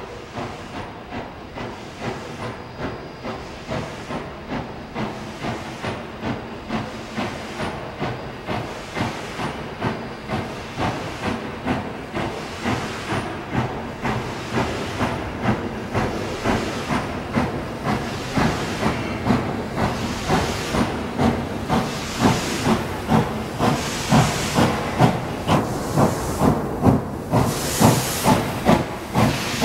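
Steam locomotive No. 98, a 4-4-0, chuffing under way: regular exhaust beats, about one and a half to two a second, growing louder and slightly quicker, with steam hissing that is strongest near the end.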